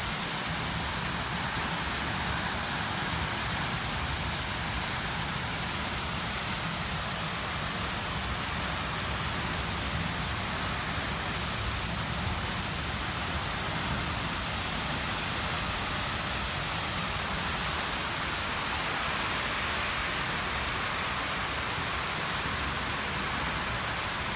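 Very heavy rain pouring down in a steady, unbroken downpour.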